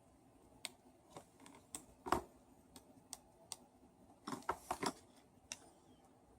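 Irregular light clicks and taps of small parts being handled while a Bosch hammer drill is reassembled, with one louder knock a little after two seconds and a quick run of clicks near the end.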